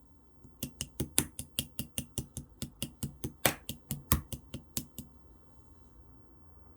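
Clear slime being squished and worked, making a quick run of sharp clicks and pops, about five a second, that stops about five seconds in.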